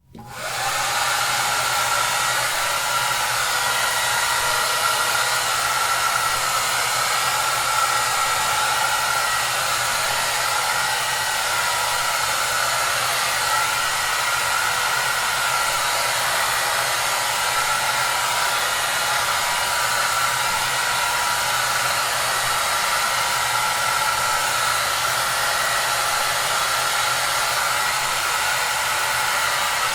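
Hair dryer running steadily: an even rushing hiss of motor and airflow with a faint steady whine. It swells in from silence within the first second.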